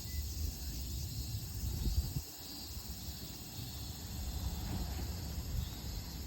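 Low rumble of an Isumi Railway diesel railcar approaching the station, with insects chirping steadily.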